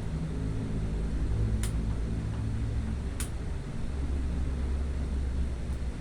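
Low rumble of distant thunder, swelling and fading twice, with two short sharp clicks about a second and a half apart.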